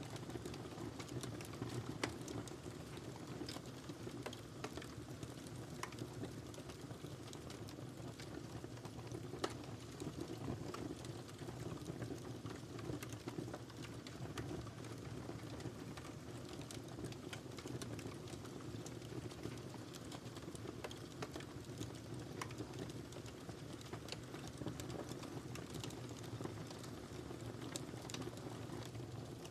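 Wood fire burning in a fireplace: a steady low rumble of flames with frequent irregular sharp crackles and pops, two or three of them louder, at about two seconds and about nine seconds in.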